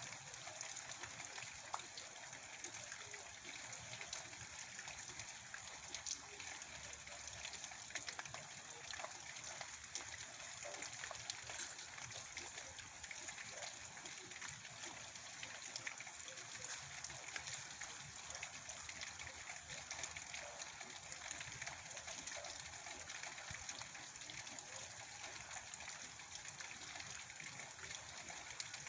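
Steady rain falling, a continuous hiss of many small drop impacts.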